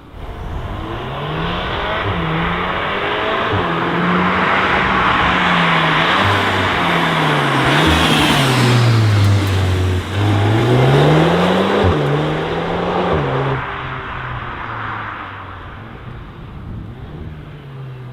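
Volkswagen Golf 8 R's turbocharged 2.0-litre four-cylinder engine accelerating hard, its pitch climbing and dropping again and again as it shifts up through the gears. Near the middle the revs fall away and build back up, and the engine is loudest there before easing off toward the end.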